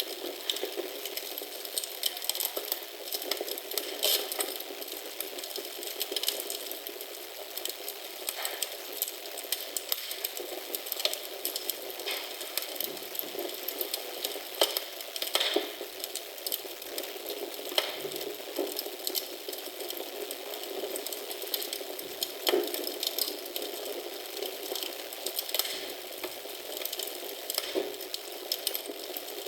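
Wood fire crackling in a fireplace, a steady hiss with frequent small irregular snaps and pops.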